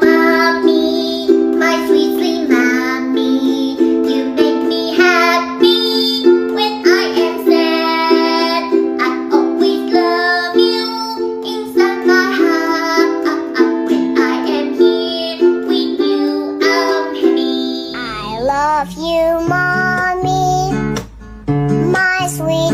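A song with a child's singing voice over a strummed ukulele accompaniment; a bass line comes in near the end.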